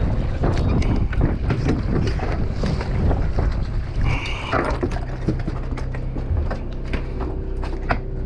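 Wind buffeting the microphone on a fishing boat at sea, over a low rumble, with scattered knocks and clatter on deck. A brief high-pitched tone sounds about four seconds in, and a steady low hum joins about five seconds in.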